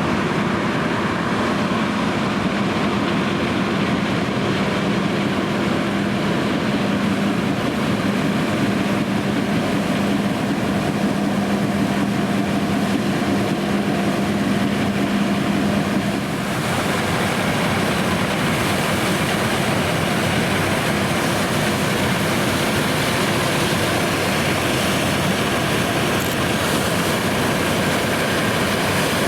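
John Deere X9 1100 combine harvester running steadily while combining oilseed rape, a steady machine hum with a low tone. About sixteen seconds in, the sound changes suddenly: the low tone drops out and it turns hissier.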